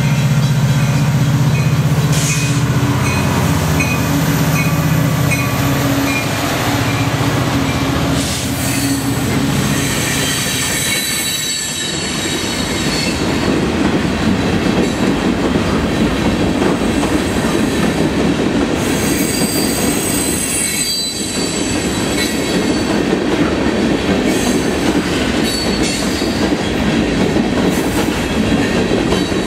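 A Union Pacific diesel locomotive passes at close range, its engine drone loudest in the first several seconds. The cars of the work train then roll by, rattling, with clicking over rail joints and some wheel squeal.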